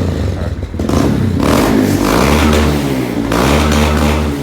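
Kawasaki Z125 motorcycle's small single-cylinder engine revved through an aftermarket exhaust, twice, the pitch climbing and falling back with each blip of the throttle.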